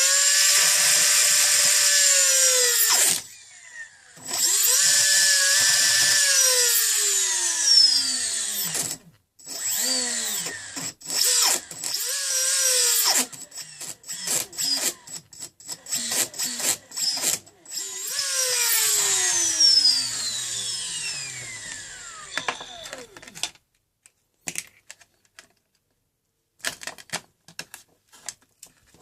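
Brushless motor of an RC boat driven by a HobbyKing ESC, whining as the throttle is worked up and down in bursts, its pitch rising and falling. A long falling spin-down about three-quarters of the way through leaves only scattered clicks. The owner is showing uneven power delivery and excess vibration at some rpm.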